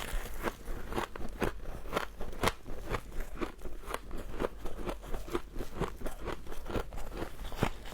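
Humidifier frost being bitten and chewed: an irregular run of sharp, crisp crunches, several a second.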